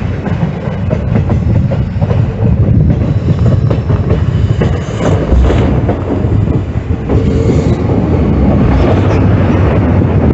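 A moving train, with its wheels clattering over the rails and a heavy, steady rumble.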